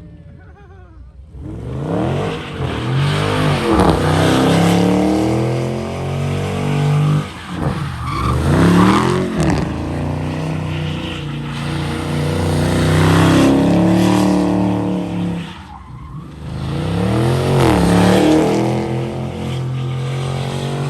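Car engine held at high revs with squealing tyres, typical of a burnout or donuts. The sound swells and fades about three times as the car circles close by.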